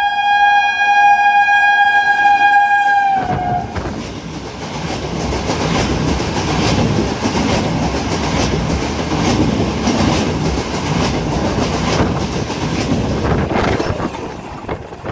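Kolkata EMU local train sounding its horn in one long steady blast that ends with a slight drop in pitch about three seconds in. The train then runs through the station at speed without stopping: a loud rumble with the repeated clatter of wheels over rail joints, falling off near the end.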